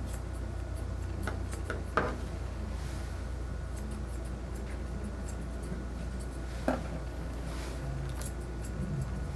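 Grooming shears snipping a puppy's coat in scattered, irregular snips, with two sharper clicks about two seconds and nearly seven seconds in, over a steady low hum.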